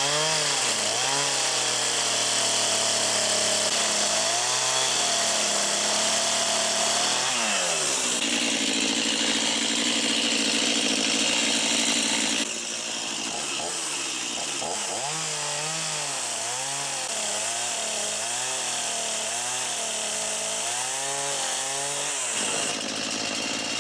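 Chainsaw cutting into a catalpa tree trunk, its engine pitch rising and falling as the chain bites and eases off. About halfway through it drops a little quieter, then carries on cutting.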